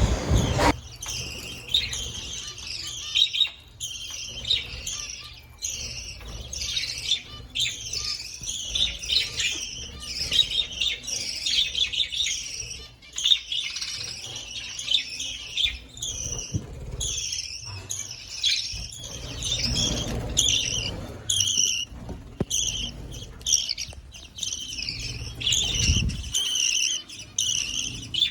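A flock of budgerigars and finches in an aviary chirping and chattering, many short high-pitched calls overlapping without a break.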